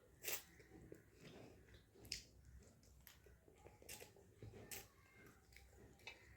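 A person chewing a mouthful of rice and curry, quietly and wetly, with about five sharp mouth clicks spread through.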